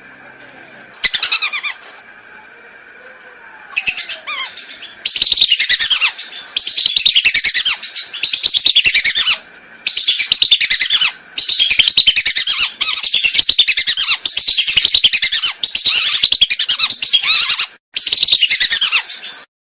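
Whistling ducks (belibis) calling: loud bouts of rapid, shrill, downward-sliding whistles, each bout about a second long and repeated every second or so, played as a hunter's lure call. A faint steady high hum lies under the first few seconds, and the calls cut off abruptly near the end.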